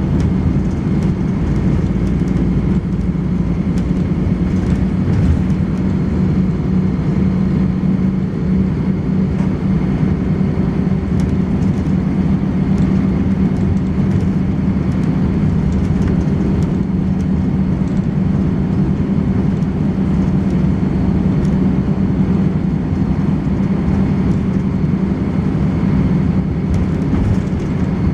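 Volvo B10BLE bus's diesel engine running steadily with a constant low drone, and a faint steady high-pitched whine above it.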